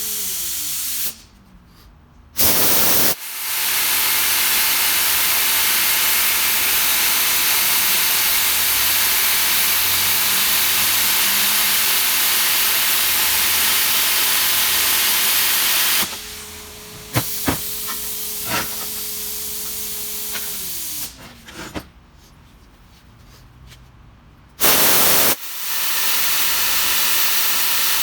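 Plasma cutter cutting the metal cutter head of a wood chunker: a steady, loud hiss that starts with a short blast about three seconds in. The hiss stops past the middle, leaving a quieter hum and a few clicks, then starts again with another blast near the end.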